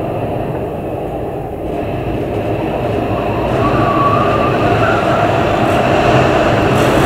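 Heavy storm wind (winter storm Ylenia) blowing in strong gusts, a steady loud rushing rumble that builds about two seconds in, with a faint high whistle about halfway.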